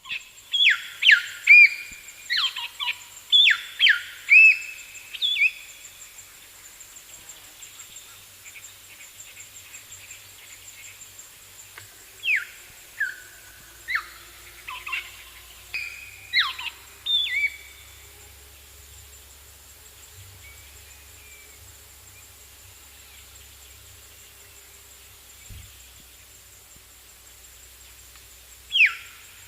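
Parrot calling: short, shrill screeches that sweep sharply down in pitch, given in quick runs over the first few seconds and again in the middle, with quieter pauses between runs.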